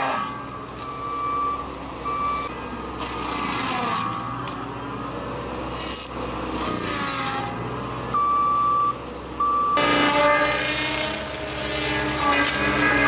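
Skid-steer loader running, with its reversing alarm sounding now and then as a single-pitch beep.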